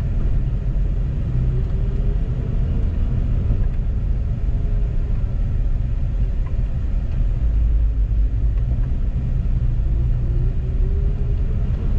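Car engine running with a steady low rumble, its pitch drifting slowly up and down a little.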